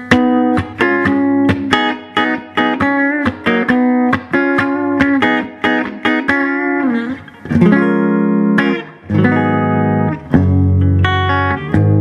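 1969 Gibson L5 archtop electric guitar played on its bridge pickup through an amplifier: quick picked notes and double-stops, a bent note about seven seconds in, then fuller ringing chords.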